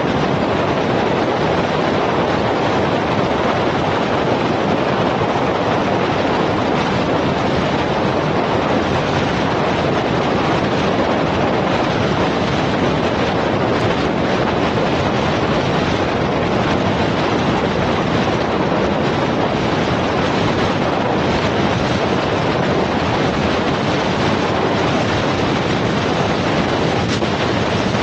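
Steady rushing wind and road noise picked up by a camera microphone on a moving vehicle in traffic, holding an even level without distinct events.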